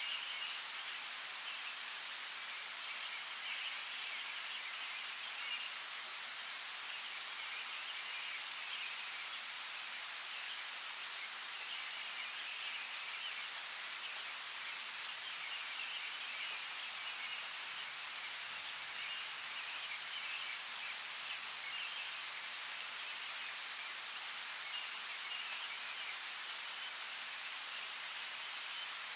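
Steady rain falling, with individual drops pattering as scattered sharp ticks. Faint chirping comes and goes over the rain in short stretches.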